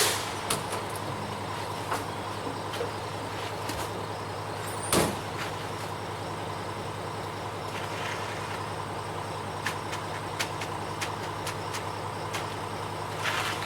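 Ready-mix concrete truck's diesel engine running steadily, with short hisses of released air about five seconds in and again near the end.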